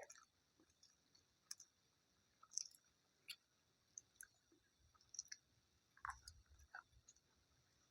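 Faint mouth clicks and smacks of a person chewing food, scattered short ticks with a soft low bump about six seconds in.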